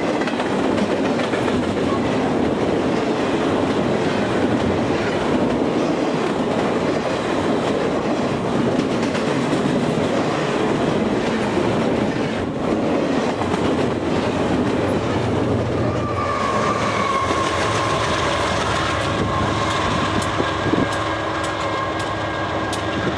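Double-stack container train's well cars rolling past close by, a dense steady rumble and clatter of steel wheels on the rails. About two-thirds of the way in the rumble eases and a steady high-pitched tone joins it.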